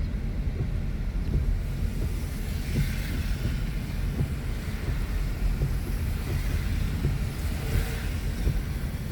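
Steady low rumble heard from inside a moving car's cabin: road and engine noise on a rainy day, with a faint hiss that swells twice, about three and eight seconds in.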